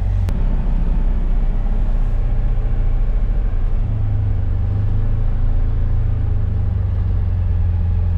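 Polaris off-road vehicle's engine idling steadily, a low rumble, with one sharp click shortly after the start.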